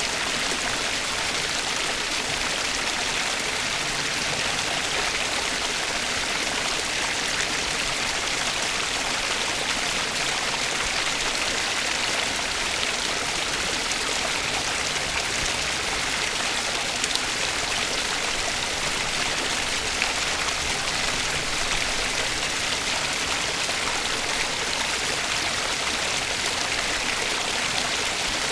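Steady flowing water, like a stream running, an even rushing with fine splashy detail and no change in level.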